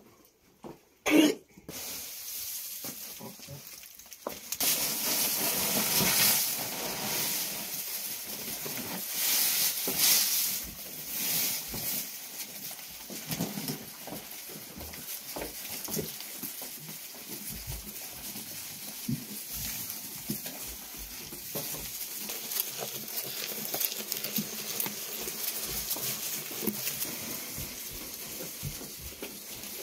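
Food frying in a hot pan: a steady sizzle with small crackles, starting about two seconds in and growing louder a couple of seconds later.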